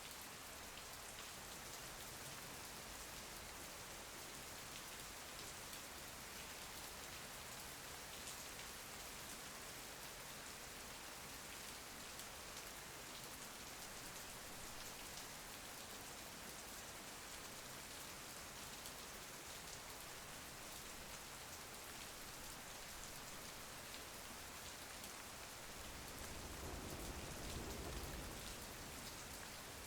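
Steady rain falling, an even hiss flecked with the small ticks of individual drops. Near the end a soft low rumble swells for a few seconds and fades.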